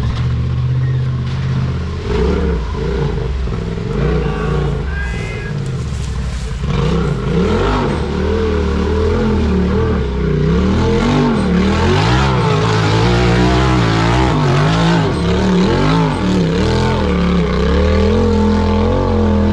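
Off-road vehicle engine working hard on a trail climb: steady at first, then revving up and down repeatedly from about seven seconds in as the throttle is worked.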